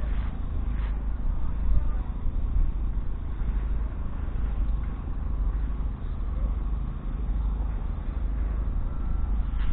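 Track Marshall AM 140 crawler's 11.1-litre six-cylinder diesel engine running steadily.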